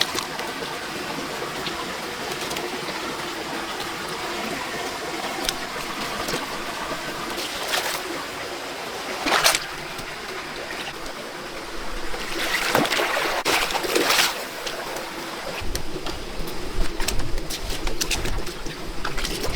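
Water trickling, with a few sharp splashes about nine and thirteen seconds in, while a bird coos in the background.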